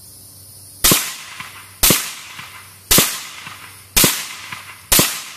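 Five suppressed gunshots about a second apart, each followed by a short decaying echo.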